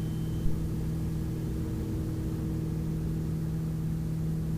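Steady low drone of the Piper Navajo's twin piston engines and propellers in flight, heard from the cockpit as one even hum with overtones.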